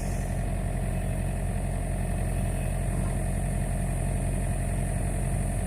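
Excavator engine running steadily at a constant speed.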